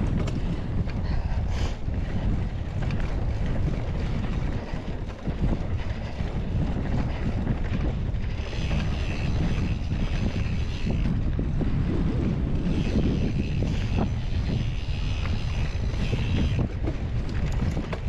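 Wind rushing over the microphone during a mountain bike ride, steady and loud, with scattered brief clicks and rattles from the bike.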